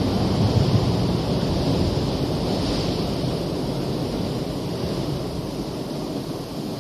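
Rumble of a passing vehicle, a Metro train or a city bus, fading steadily as it moves away.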